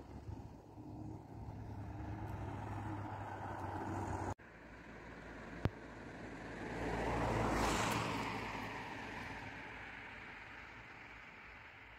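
A road vehicle passing by: its noise swells to a peak a little before eight seconds in and then fades away. Before that there is a steady low engine hum, which breaks off abruptly about four seconds in, followed by a single sharp click.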